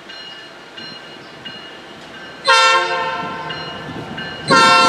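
Freight locomotive air horn sounding two loud blasts of several notes together, the first about halfway through and the second near the end, holding on past it.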